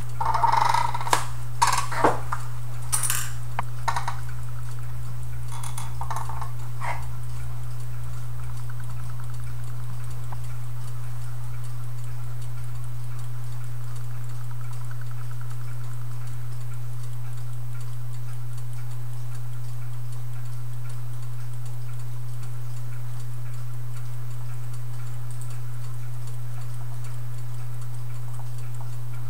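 Clock ticking over a steady low hum, with a handful of sharp clicks and knocks in the first seven seconds.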